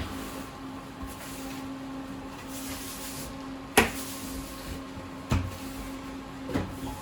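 Sharp knocks or bangs over a steady hum: three in all, the loudest just under four seconds in and two smaller ones later.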